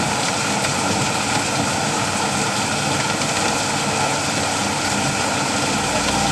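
Steady afternoon rain falling, an even hiss. A low rumble comes in near the end.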